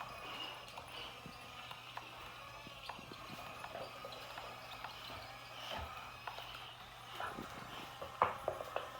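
Scattered light clicks and knocks, with a sharper cluster about eight seconds in, over a faint steady low hum, as a Boxer dog plays with a radio-controlled toy excavator.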